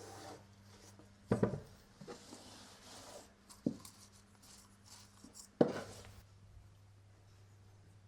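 Household handling sounds: three knocks of things being set down or bumped, about two seconds apart, with light rubbing and rustling between them over a faint steady low hum.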